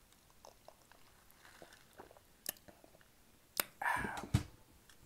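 Quiet close-miked eating sounds: soft chewing and small wet mouth clicks. Near the end come a sharper click, a short louder mouth sound and a sharp knock.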